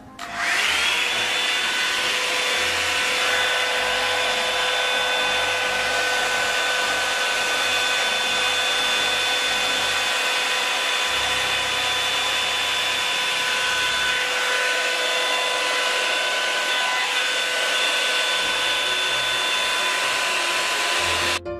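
Revlon One-Step hair dryer brush running on its high setting: a loud, steady rush of air with a high motor whine, which comes up to speed in the first second and cuts off suddenly near the end.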